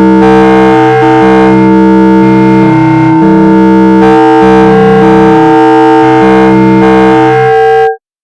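Synthesizer tones generated algorithmically, several steady pitches held and switched in overlapping steps like a drone of chords, cutting off abruptly near the end.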